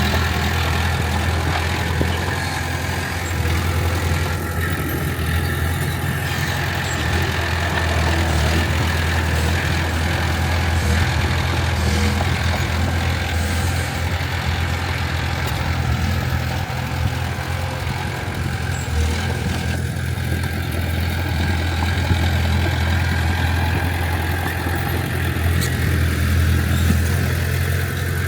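Diesel engine of heavy earthmoving equipment running steadily, a continuous low drone that barely changes level.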